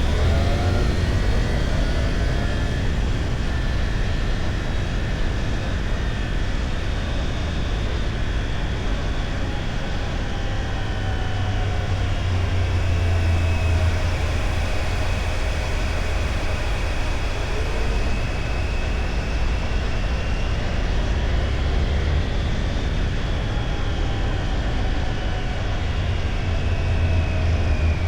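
Motorcycle running through traffic at riding speed: a steady low engine rumble under heavy wind noise on the microphone, with faint tones sliding up and down now and then.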